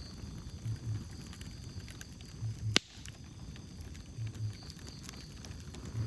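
Wood fire crackling with small scattered pops and one sharp, loud crack about three seconds in. A soft, low double thud repeats about every two seconds underneath.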